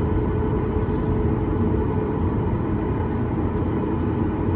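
Steady cabin noise of a Boeing 737 MAX 8 with its CFM LEAP-1B engines running: a continuous deep rumble with a faint steady hum on top.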